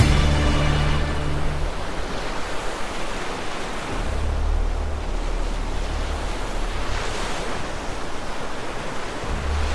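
Flood water rushing and surging like heavy surf, a steady wash of noise with a low rumble underneath.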